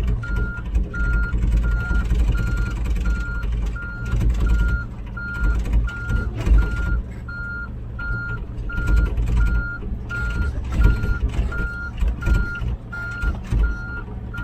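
Reversing alarm beeping at an even pace, a little more than one beep a second, over a diesel engine's low rumble.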